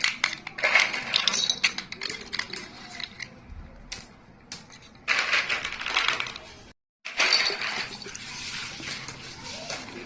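Small hard toys clattering and clinking as they are handled, a rapid run of light clicks and knocks, broken by a moment of dead silence about seven seconds in.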